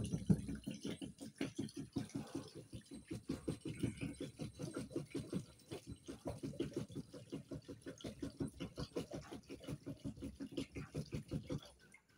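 Brisk back-and-forth scrubbing with a brush while cleaning a washing machine, about six even strokes a second, stopping abruptly near the end.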